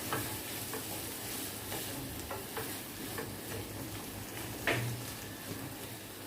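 Chicken sukka sizzling in the pan while a spoon scrapes and taps against the pan, scooping it out, with clicks every half second or so and one louder knock about two-thirds of the way through.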